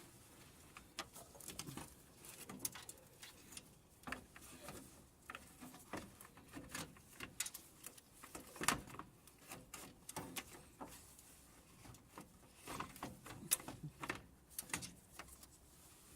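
Irregular light clicks, taps and clanks of hand tools and parts being handled while working on the car, scattered throughout, with one louder knock a little past the middle.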